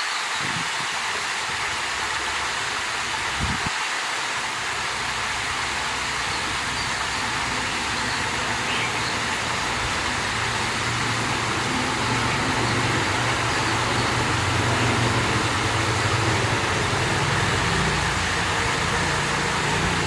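Steady rush of water flowing out of a small lake, with a low motor rumble coming in about halfway through and growing louder toward the end.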